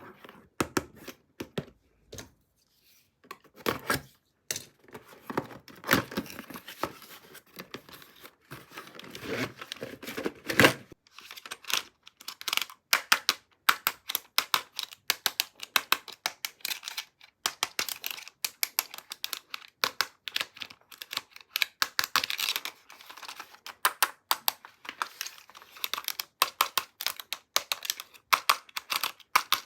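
Toy packaging being opened by hand: tearing and crinkling of wrapping. Scattered handling clicks for the first ten seconds or so, then a dense run of fast crackling.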